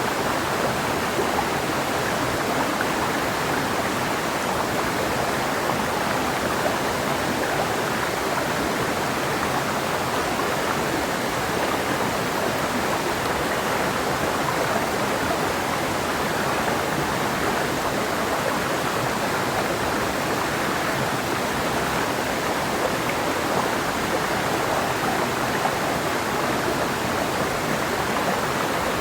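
Clear mountain river flowing over rocks: a steady rush of water with no break or change.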